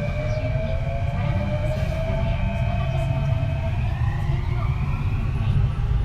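Kintetsu 3220 series train's Hitachi IGBT VVVF inverter and traction motors whining, several tones gliding steadily upward as the train gains speed, over a constant rumble of wheels on rail.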